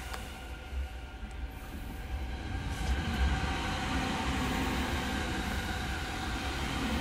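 Steady interior hum of a Sobu Line local electric commuter train, several even tones held over a low rumble, growing a little louder about three seconds in.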